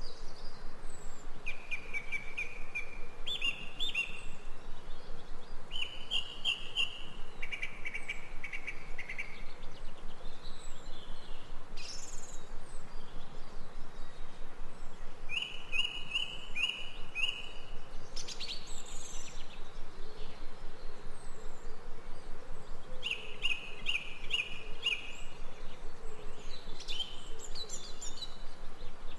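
Forest birds singing: short phrases of three or four quick, bright chirps, repeated every several seconds, with a few higher calls in between. Under them runs a steady, rapidly pulsing insect chorus.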